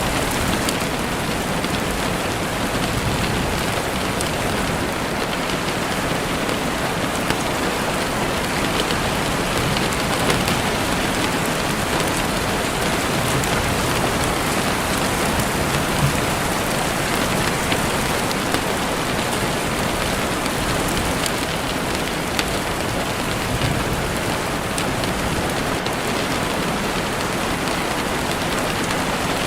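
Heavy rain falling steadily on a window, a dense even hiss with scattered individual drop taps.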